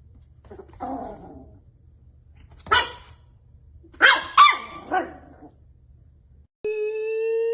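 A dog barking: a softer sound about a second in, one sharp bark, then three quick barks. Near the end a loud steady tone starts suddenly and rises slowly in pitch.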